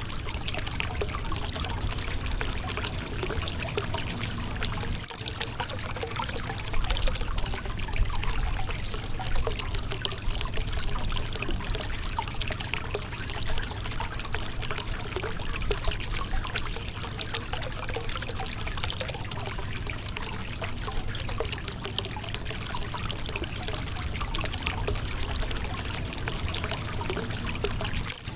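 Shallow river water running and trickling over a rocky riverbed, a steady babble.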